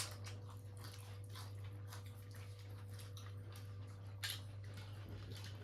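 Someone chewing crunchy fried fish: faint, irregular crunching clicks over a steady low hum.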